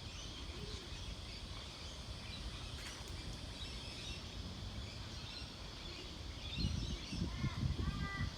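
Outdoor ambience with wind rumbling on the microphone and faint scattered bird chirps. Near the end a bird calls over and over in short, evenly spaced notes, while gusts of wind get louder.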